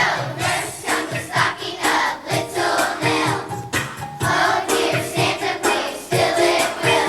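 Children's choir singing to musical accompaniment with a steady beat.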